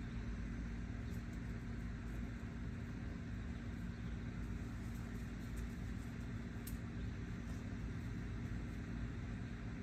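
Steady low background rumble with a constant hum, with a faint high click about two thirds of the way through.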